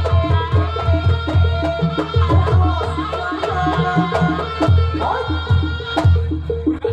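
Live Javanese jaranan ensemble music: kendang drum strokes in a quick steady rhythm, repeating gong-chime notes, and a wavering high melody line over them.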